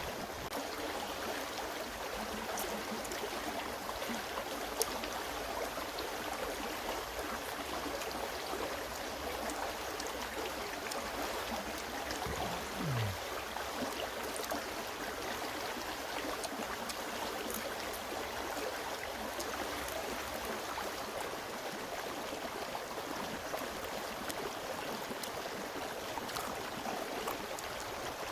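Steady rush of a flowing stream, with a few faint clicks.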